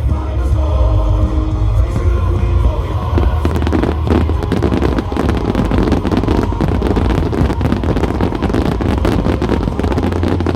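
Loud music with a heavy low hum. About three and a half seconds in, a dense, rapid crackle of fireworks starts and runs on over it.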